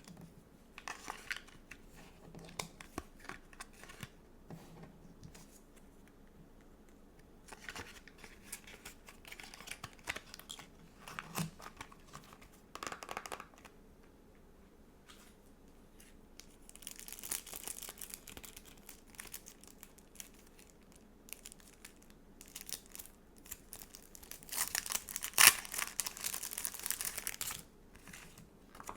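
Stickers and a sticker book being handled close up: scattered short peeling and crinkling rustles and light taps, with two longer stretches of crinkly rustling in the second half and a sharp snap near the end.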